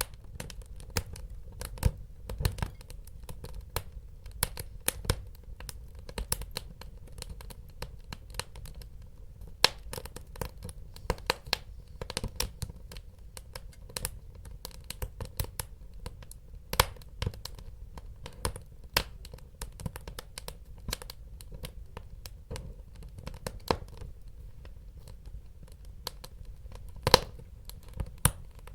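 Wood fire burning in a fireplace: irregular crackles and sharp pops over a low, steady rumble, with one louder pop near the end.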